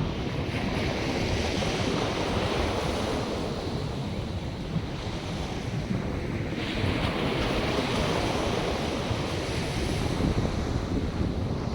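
North Sea waves breaking and washing in, with wind rumbling on the microphone. The surf's hiss swells up twice, about half a second in and again past the halfway point.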